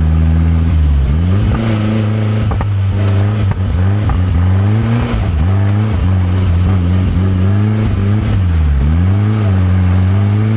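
Turbocharged engine of a Locost kit car being driven on the road, its revs dropping and climbing again several times, about a second in, near four seconds and near nine seconds, as it shifts gear and comes on and off the throttle.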